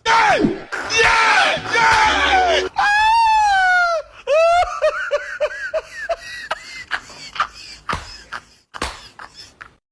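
A person screaming and wailing without words: loud falling cries at first, a long wavering cry about three seconds in, then a string of short cries that trail off.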